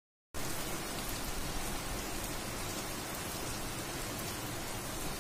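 Heavy rain falling steadily: a dense, even hiss with fine patter of drops, starting a moment in.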